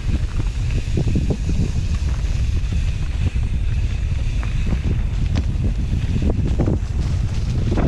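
Wind buffeting the camera microphone as a mountain bike rides down a trail, with a steady low rumble and scattered short knocks and rattles from riding over rough ground.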